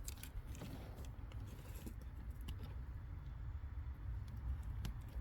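Faint scattered clicks and taps of small plastic connectors and wires being handled and pushed back into place, over a steady low background rumble.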